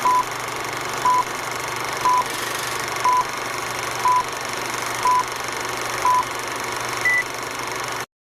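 Electronic countdown beeps: a short beep at one pitch about once a second, then a single higher beep near the end, over a steady hiss and low hum that cuts off abruptly.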